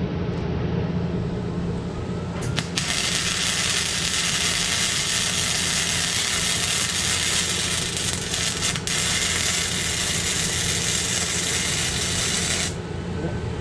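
An electric welding arc crackling and sizzling steadily as a bead is laid. It strikes about three seconds in and cuts off sharply near the end, over a steady low hum.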